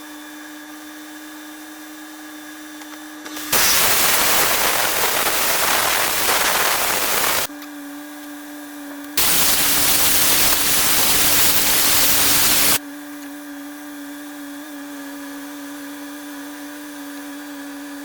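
Two long, loud hissing blasts, each about four seconds with a short pause between, over a steady mechanical hum that runs throughout.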